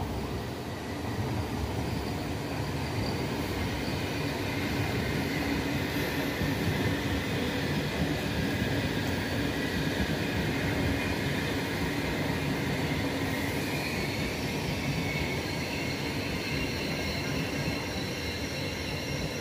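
Trenitalia Frecciarossa high-speed electric train running past through the station: a steady rumble of wheels on the rails, with thin high squealing tones that shift upward in the second half.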